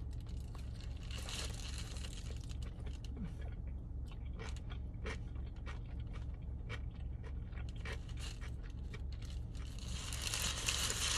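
Close-up biting and chewing of an all-beef hot dog on a poppy seed bun, with many small wet clicks and crunches of mouth sounds. Paper wrapper rustles briefly near the start and again near the end, over a steady low hum.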